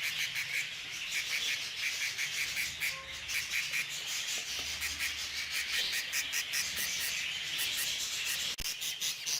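Budgerigar chicks in the nest begging: rapid, raspy chirps repeated several times a second.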